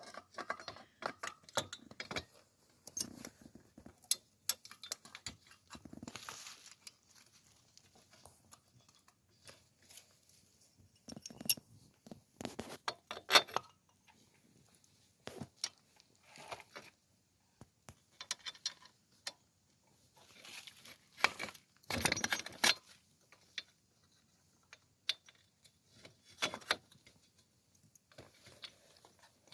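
Scattered metallic clinks, taps and knocks of wheel hardware being handled and fitted while a wheel is mounted on an SSR 125cc dirt bike, with a louder clatter about 22 seconds in.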